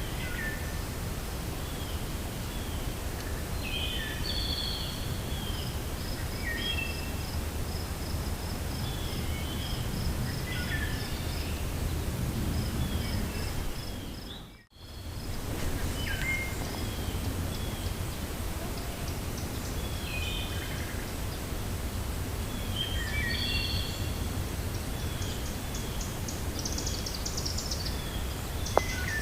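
Cold wind blowing through a forest with a low rumble, while songbirds chirp and call on and off, including a quick run of high repeated notes in the first half. About halfway the sound fades out for a moment and comes straight back.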